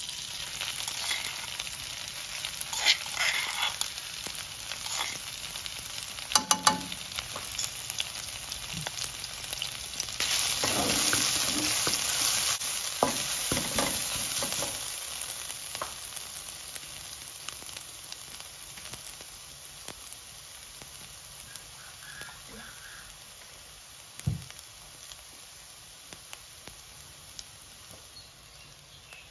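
Coarsely pounded dried chilli and garlic sizzling in hot oil in a wok, stirred with a wooden spatula. The sizzle starts at once, swells about ten seconds in and then slowly dies down. It comes with occasional knocks and scrapes, and a single low thump a little past twenty seconds.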